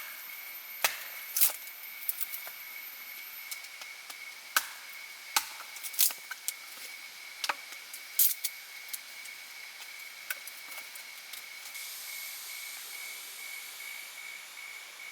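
Wood being chopped or split: about a dozen irregular, sharp knocks and cracks, most of them in the first nine seconds.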